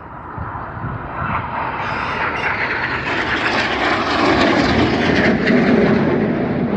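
BAE Hawk T1 jets of the Red Arrows flying past, their Adour turbofans making a dense jet noise that grows steadily louder as they approach.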